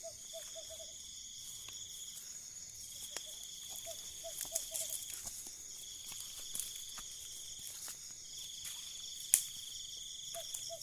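An owl calling in short runs of four or five quick hoots, three runs several seconds apart, over steady high-pitched chirping of crickets and other night insects. A single sharp click a little after nine seconds in.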